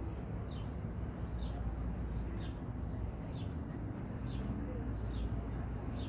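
A bird calling: a short, high, falling chirp repeated about once a second, over a steady low rumble.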